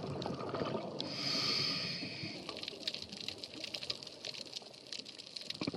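Underwater scuba-dive sound: a hiss of breath through a diver's regulator lasting about a second and a half, over a steady crackle of small clicks in the water.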